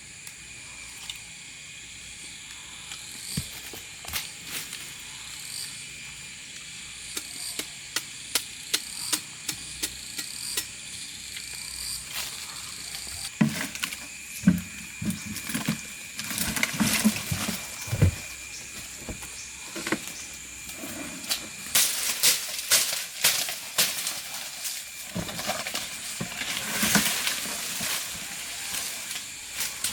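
A steady high-pitched drone of forest insects. Over it come many sharp knocks and cracks, growing denser and heavier from a little before halfway through, with several dull thuds among them.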